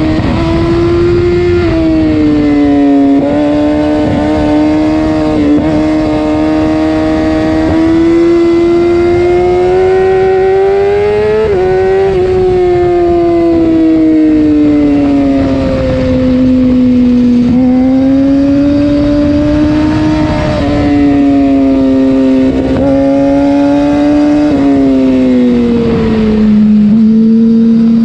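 Yamaha R6 inline-four sport bike engine pulling hard through the gears on the road. Its note climbs and falls with the throttle and drops sharply at quick gear changes several times, over a low rush of wind noise.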